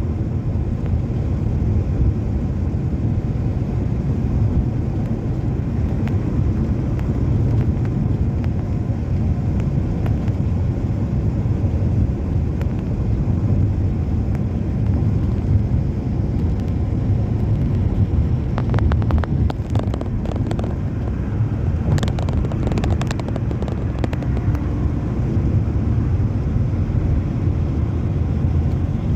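Passenger train running along the track, heard from on board as a steady low rumble, with a short run of sharp clicks and clatter about two-thirds of the way through.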